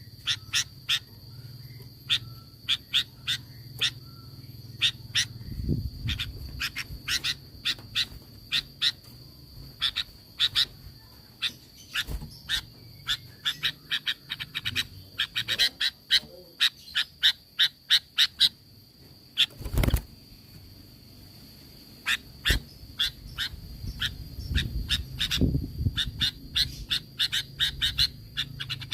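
Sooty-headed bulbul calling: many short, sharp notes in quick runs and clusters, over a steady high tone and a low hum. A single sharp click about twenty seconds in.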